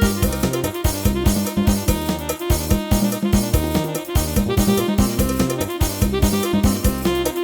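Yamaha PSR-1000 arranger keyboard playing a Thai procession-style tune, a melody over drum accompaniment with a steady beat.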